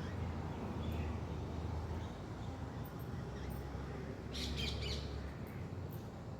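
Birds chirping: a quick cluster of short high chirps about four seconds in, with a few fainter calls around it, over a steady low rumble.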